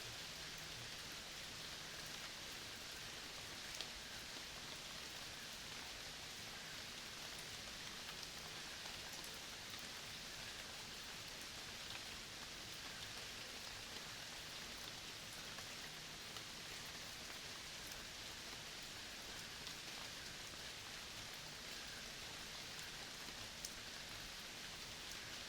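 Steady, even hiss of rain, with a few faint drop ticks now and then.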